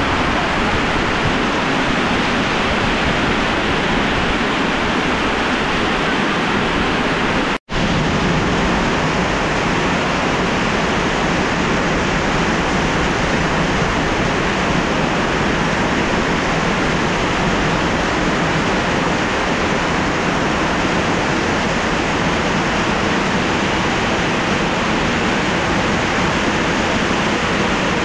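Heavy downpour of rain, a loud, steady hiss of falling water with no let-up, broken once by a momentary silence about a quarter of the way in.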